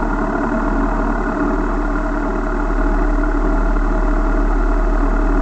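Car engine idling steadily while the car stands still.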